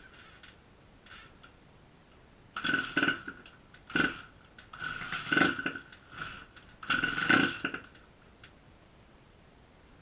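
1999 Honda CR125 two-stroke motocross bike with its stock exhaust being kick-started: four short bursts a second or two apart as it is kicked over without settling into running.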